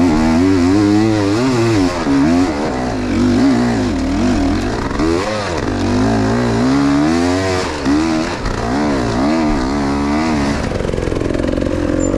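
Enduro motorcycle engine being revved up and down over and over, pitch rising and falling every second or so as the throttle is worked on rough terrain. Near the end it settles to a steadier note.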